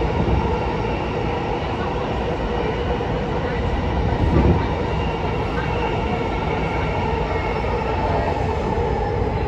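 Running noise inside a JR East E233 series 0 electric commuter car at steady speed: a constant rumble of wheels on rail with a steady hum of level tones. About four and a half seconds in there is a brief, louder low rumble.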